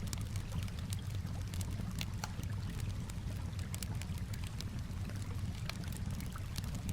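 Campfire crackling with frequent sharp pops and snaps, over a steady low wash of gently moving water.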